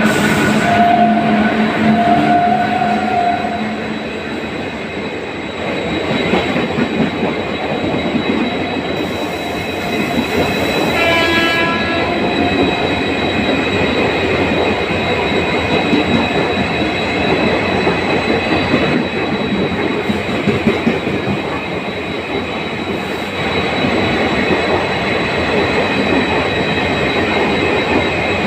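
Express train with ICF coaches passing at speed, with continuous loud rumble and clickety-clack of wheels over the rail joints. A horn sounds for about three seconds at the start, and a short horn note comes about eleven seconds in.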